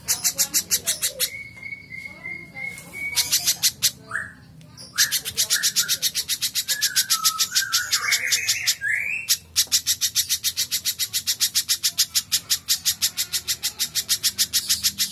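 Spiderhunter (pijantung) song: long runs of fast, sharp, high chips, about seven a second, broken early by a steady whistled note and mixed in the middle with lower squeaky gliding notes.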